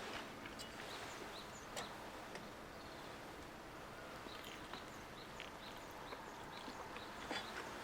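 Faint chirping of small birds, many short scattered calls over a soft outdoor background hiss, with a few light clicks.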